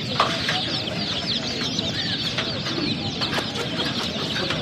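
Many baby chicks peeping at once: a dense, continuous chorus of short, high overlapping cheeps, with a few sharp clicks among them.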